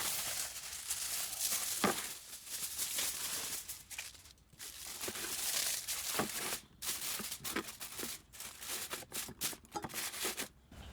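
Irregular rustling and crinkling noise in uneven bursts, broken by many short clicks: the sound of something being handled close by.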